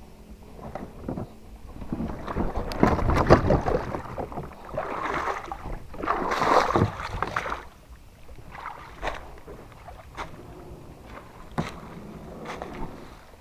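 Sounds on a kayak: two stretches of water splashing and sloshing, with scattered knocks and clicks against the hull.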